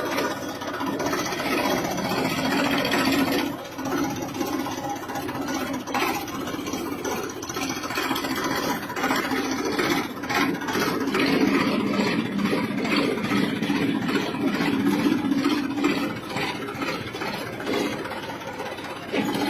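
Tractor engine running steadily, its level rising and falling a little, with occasional short clicks over it.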